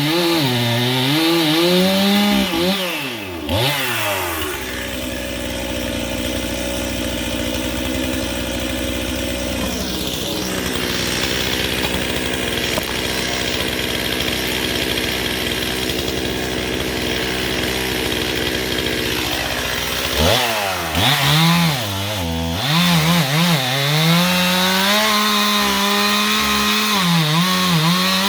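Chainsaw running at high revs and cutting wood, its pitch wavering under load. About four seconds in it drops back to a steady idle, and about twenty seconds in it revs up again and cuts, wavering once more.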